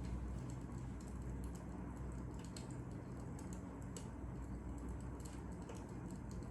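Fire crackling: small irregular pops and snaps over a low steady rumble.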